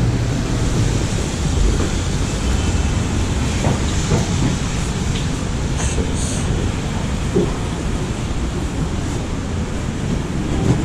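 Steady rumble and rattle of a subway train running, with a short high hiss about six seconds in.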